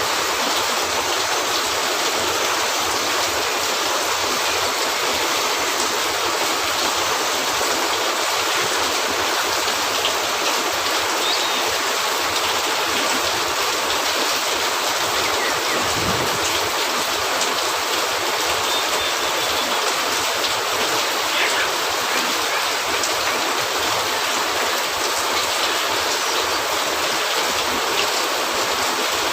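Steady rain falling on a cabin roof: a dense, even hiss of drops, with faint scattered ticks through it.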